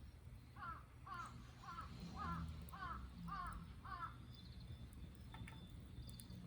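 A bird calling seven times in a steady series, about two calls a second, stopping about four seconds in.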